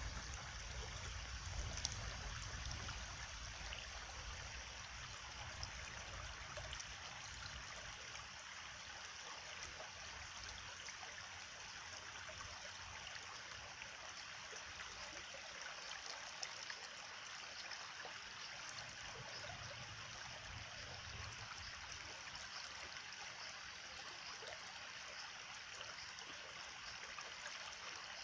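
Steady flowing stream with water trickling and gurgling, an even rushing with small splashes.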